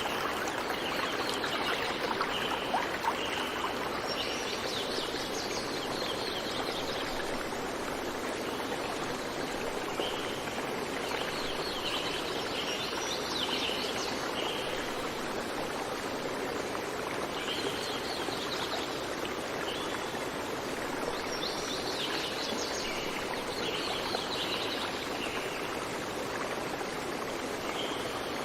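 A stream running steadily, with small birds chirping in short bursts every few seconds over it.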